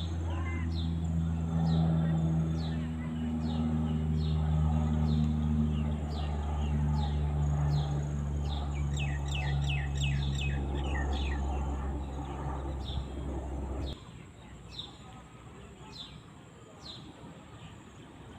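Birds chirping in short, high, falling notes about once a second, with a quicker run of calls midway. Under them runs a low, steady motor hum that cuts off abruptly near the end.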